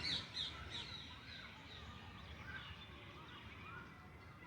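Several birds chirping and calling at once, a faint busy mix of short high notes that is densest in the first second.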